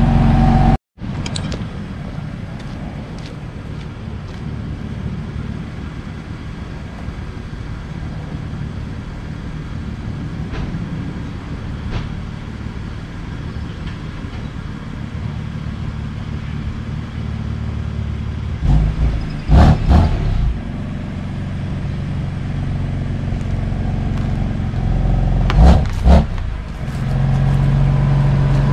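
BMW F80 M3's twin-turbo inline-six idling steadily. Twice in the last third there are brief, loud knocks. Near the end the engine note becomes a louder, steady drone.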